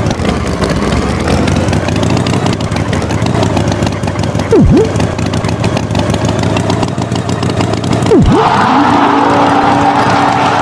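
Engine sound effect of a cartoon tractor running steadily. Twice a quick swooping sound dips and rises over it. Near the end a steady tone and a hissier layer join in.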